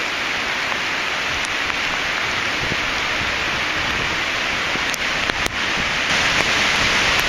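Hurricane wind roaring in a steady hiss with rain, building a little louder near the end as a big gust comes through.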